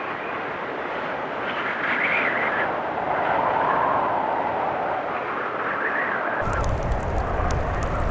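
Blizzard wind blowing in gusts, with whistling swells that rise and fall in pitch. About six seconds in, a crackling wood fire with a low rumble comes in under the wind.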